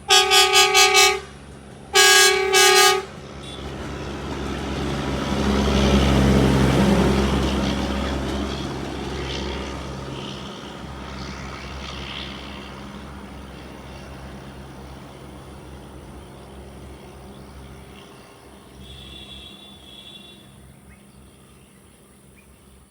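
Train horn sounding in short blasts, then a second blast, followed by a train running past: a rumble that builds to its loudest about six seconds in and slowly fades away.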